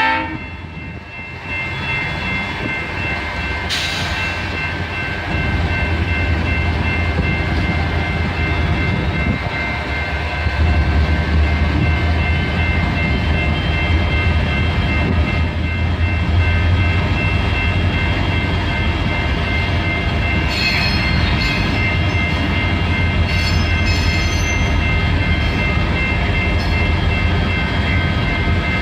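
Freight train led by a GP40 diesel locomotive passing close by. The engine rumbles low and steady, growing louder about five seconds in and again around eleven seconds, with a thin steady high ringing over it. The end of a horn blast cuts off at the very start, and sharp clicks come from the wheels over the rail joints later on.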